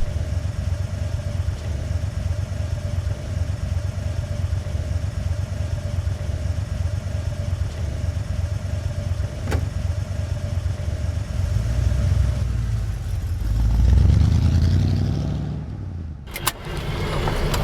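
Car engine running steadily as the car drives, swelling louder near the end before dropping away, followed by a sharp knock and a busier clatter.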